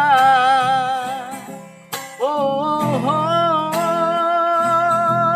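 Busker's voice holding a long sung note with vibrato, then after a short break a second note that slides up and is held steady, over acoustic guitar.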